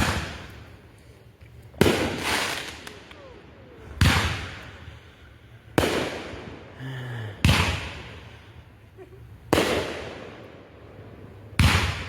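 Consumer aerial fireworks bursting: seven sharp bangs, about one every two seconds, each trailing off before the next.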